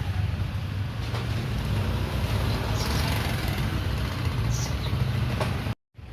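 Steady low rumble, like an engine or traffic, with a few faint high bird chirps around the middle. The sound cuts out abruptly near the end.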